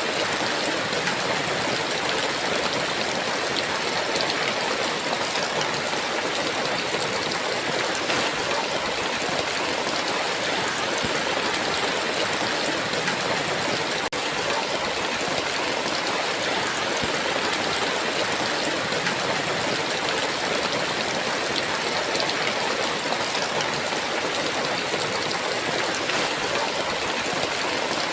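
Heavy rain pouring steadily in a dense, even hiss with no distinct drops or thunder.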